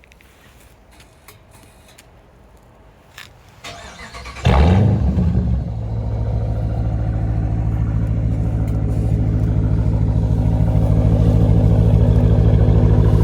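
Muffler-deleted Dodge Challenger engine being started: after a few faint clicks it cranks and catches about four seconds in with a loud flare of revs, then settles into a steady, loud idle.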